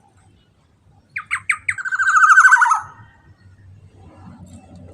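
Black-naped oriole (kepodang) calling: three short falling notes, then a fast, harsh rattling trill of about a second that slides down at its end.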